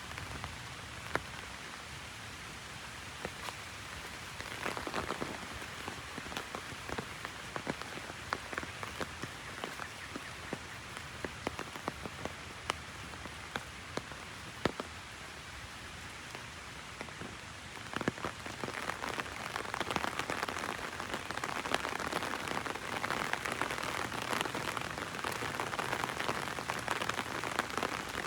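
Heavy rain falling on an open umbrella, with many sharp ticks of single drops striking it. The rain grows heavier about two-thirds of the way through.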